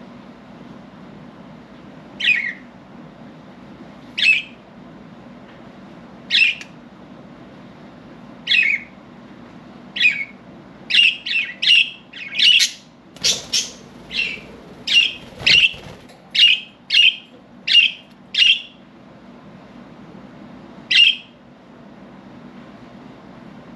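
Budgerigars giving short, sharp squawking calls. They come singly about every two seconds at first, then fast and overlapping for several seconds, with a last one near the end.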